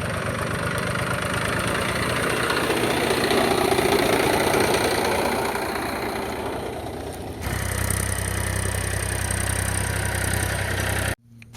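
A tractor engine sound running steadily. It changes abruptly about seven seconds in and cuts off just before the end.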